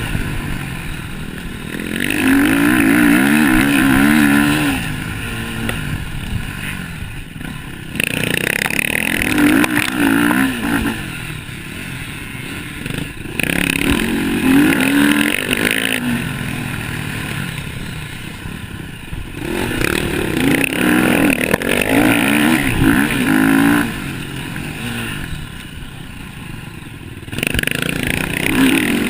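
Motocross bikes racing, engines revving up and down as riders work the throttle, the sound swelling loudly several times as bikes pass close and fading between.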